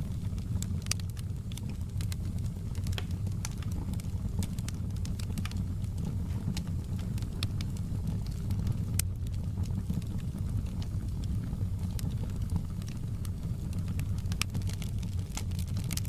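Wood fire crackling in a fireplace: irregular sharp snaps and pops scattered over a steady low rumble of the burning fire.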